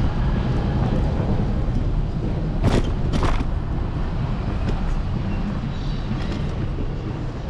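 City street traffic with heavy low wind and road rumble on a handlebar-mounted camera of a moving electric scooter. Two sharp clicks come about three seconds in.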